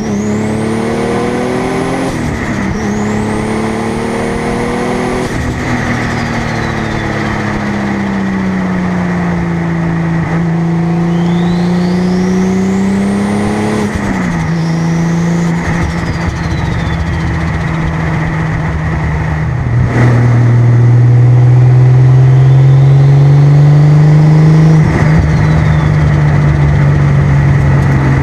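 Toyota Supra's single-turbo 2JZ inline-six being driven through the gears, its engine note climbing and then dropping sharply at each gear change. A high turbo whistle rises as the turbo spools and then falls away, three times.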